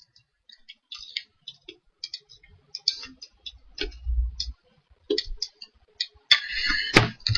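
Irregular clicks of a computer mouse and keyboard, with a soft low thump about halfway through and a denser run of clicking near the end.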